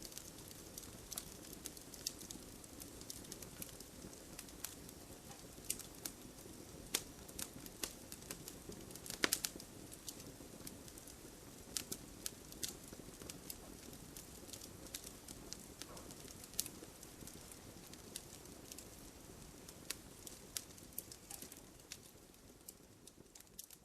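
Wood fire crackling: irregular sharp pops and snaps over a soft steady hiss of burning, with one louder pop about nine seconds in. The sound fades down near the end.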